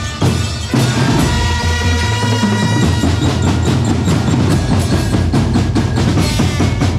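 Live drum band music: bass drum and snare under held melodic notes, breaking into a run of fast, closely spaced drum strokes in the second half.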